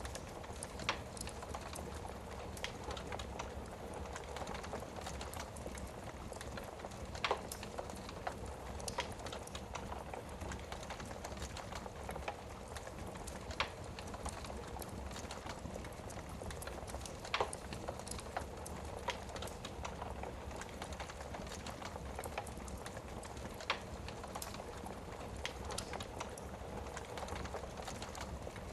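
Wood fire burning in a fireplace: a steady low hiss with irregular sharp crackles and pops from the burning logs.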